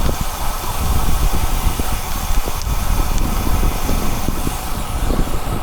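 Wind rushing over the microphone of a camera carried by a road cyclist, with a steady hiss and an uneven low buffeting rumble.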